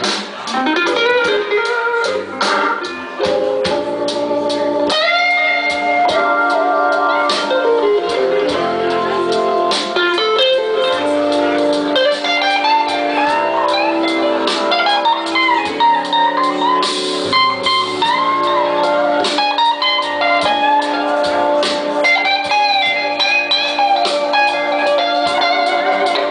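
Live blues-rock band playing, with a guitar leading in sustained, bending notes over bass and drums.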